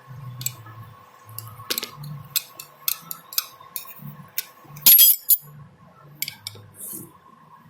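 Metal parts and tools clinking and clicking as they are handled during work on the Volvo D13 engine's main crank bearings. A louder clatter comes about five seconds in.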